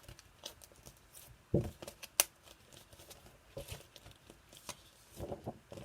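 Faint handling of paper flashcards as they are flipped and swapped: scattered light clicks and rustles, with a soft thump about one and a half seconds in and a sharp click just after.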